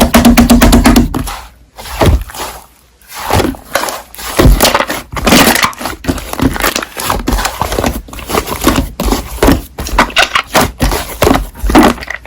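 Slime being kneaded and pressed by hand, giving rapid, irregular sticky clicks and small pops of trapped air, with a brief lull about two seconds in.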